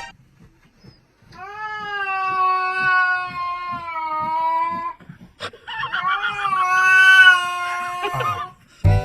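A domestic cat yowling: two long, drawn-out caterwauls, each held for about three seconds, the second slightly higher and rougher.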